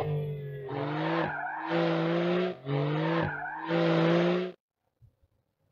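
2022 Porsche 911 GTS's turbocharged three-litre flat-six, heard through its sports exhaust, running hard at a fairly steady pitch in four surges with brief lifts between them, then cutting off suddenly near the end.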